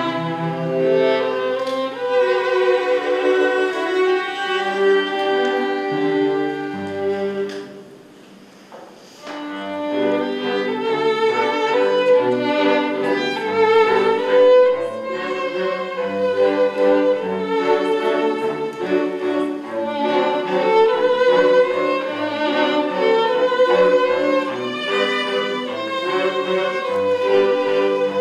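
A live string quartet playing a slow piece of bowed strings, with violin lines above cello. The playing breaks off briefly about eight seconds in, then resumes.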